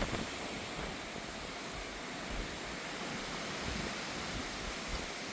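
Steady rushing of wind as a thunderstorm approaches, with light low buffeting on the microphone.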